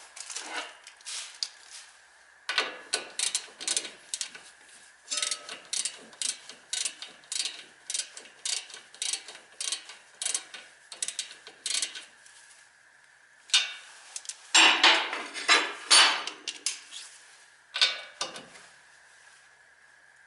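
Hand ratchet wrench being worked in short strokes, clicking in runs at about two clicks a second, loudest past the middle.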